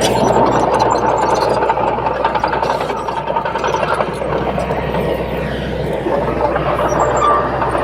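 Heavy construction machine's diesel engine running steadily and loud, with a deep, even hum beneath.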